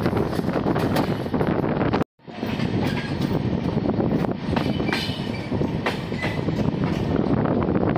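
Indian Railways AC express coaches running along the track, heard from the train itself: a steady rumble of wheels on rail with scattered clicks over rail joints and a few brief high squeaks. The sound drops out for a moment about two seconds in.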